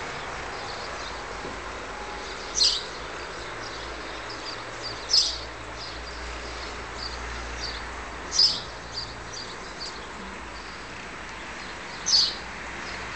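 A bird calling: four loud, short high-pitched calls about three to four seconds apart, with fainter chirps in between, over a steady low background hum.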